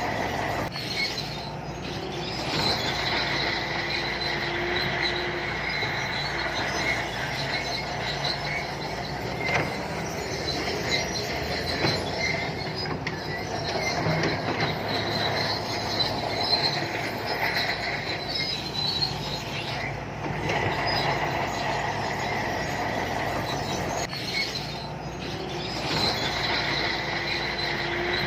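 Shantui crawler bulldozer running under load, its diesel engine droning while the steel tracks give a continual high squeal.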